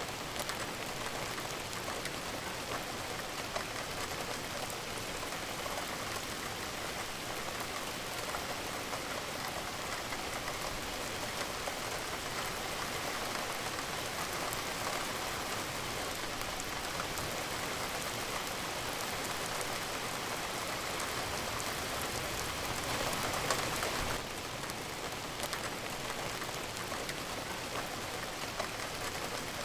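Steady rain falling on a surface, a dense even hiss of drops. It swells briefly louder for a second or so about three-quarters of the way through.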